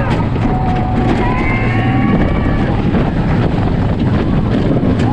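Wind buffeting the microphone over the rumble of the Lightning Rod wooden coaster train running on its track, with riders screaming, several at once early in the stretch.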